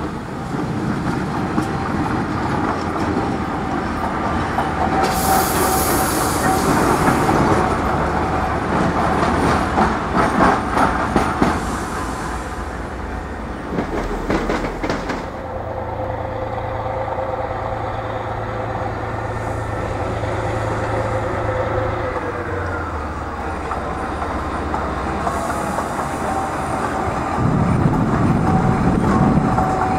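Train moving in a station, its wheels clicking over rail joints amid a steady machinery hum. There is a burst of hissing about five seconds in, and a hum tone that drops in pitch around two-thirds of the way through.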